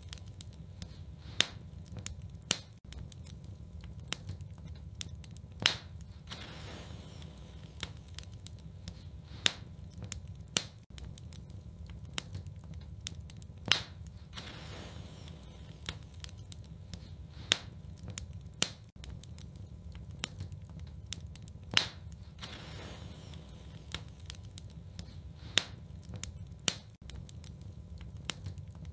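Wood fire in a fireplace crackling over a steady low rumble, with a louder sharp pop about every four seconds.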